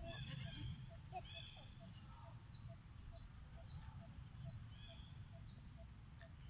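Faint bird chirps: short falling notes, one every half second or so, with a faster, regular pipping beneath them over a low rumble.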